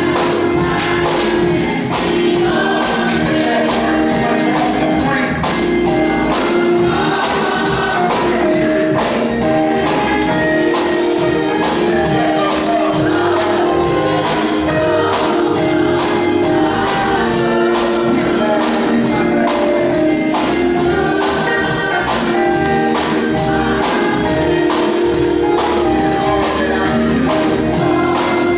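Gospel music: a choir singing over a tambourine that keeps a steady beat.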